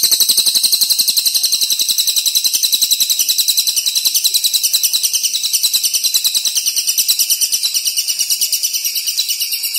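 A songbird giving a long, fast, even rattling trill of about nine sharp notes a second, held without a break.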